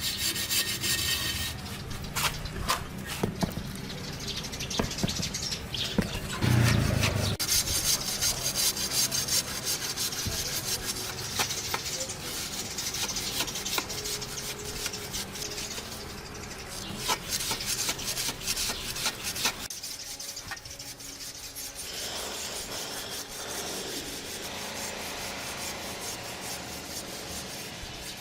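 Abrasive scraping in quick, repeated strokes, as in sanding or rasping a surface, with a heavier thud about a quarter of the way in.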